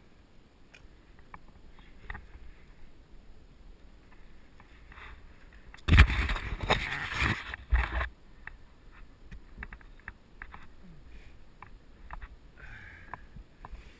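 Mountain bike riding on a dirt trail, heard from a helmet camera: faint ticks and crunches from the tyres and bike, with a loud rush of noise about six seconds in that lasts some two seconds.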